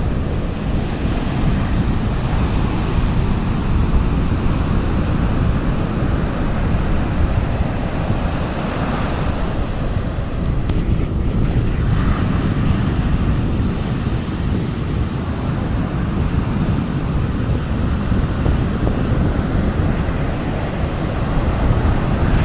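Sea waves washing steadily onto a beach, with wind rumbling on the microphone.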